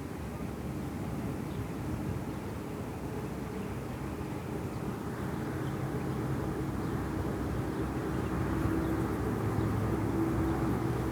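A steady low mechanical drone with a faint held tone, growing gradually louder.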